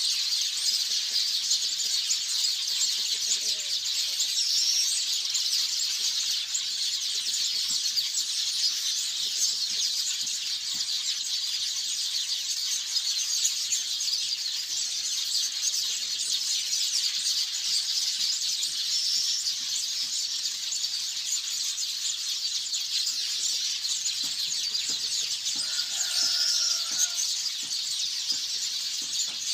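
A colony of weaver birds chattering nonstop, a dense high-pitched twittering at an even level, with a lower call standing out about 26 seconds in.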